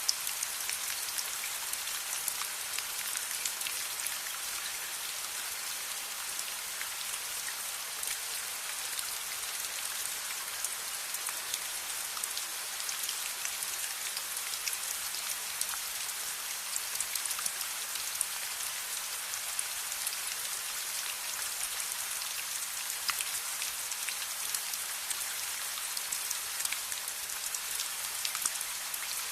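Steady rain: an even hiss dense with small, sharp drop ticks.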